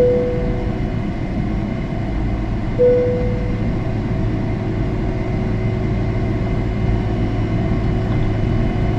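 Steady cabin roar of an airliner in flight: engine and airflow noise heard from inside the cabin. Two short fading tones ring out, one at the start and one about three seconds later.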